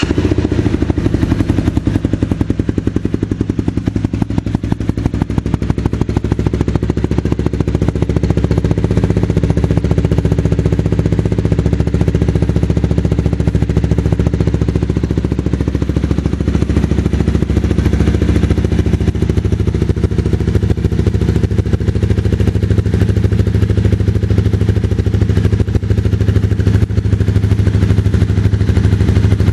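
Honda CBR250R's single-cylinder engine idling steadily through an aftermarket carbon exhaust, a dense even run of exhaust pulses with a low, deep tone.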